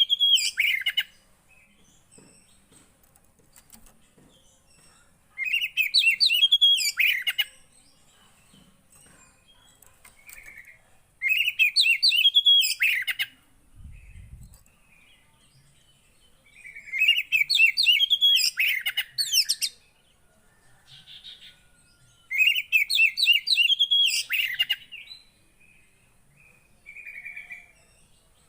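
A poci songbird singing short, rapid phrases of chirping notes about two seconds long, repeated every five to six seconds. This is lure song played to get a silent caged poci singing again.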